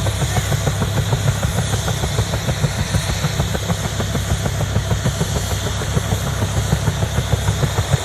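Bell UH-1 Huey helicopter running, the fast, even beat of its two-blade main rotor over a steady high whine from its turboshaft engine.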